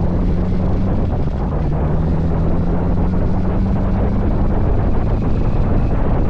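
Motorcycle cruising at highway speed: heavy wind buffeting the microphone over the steady drone of the engine, whose note rises a little and then sinks into the wind noise about halfway through.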